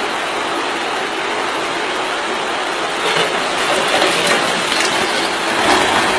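Steady rushing noise that starts abruptly and swells a little about three seconds in.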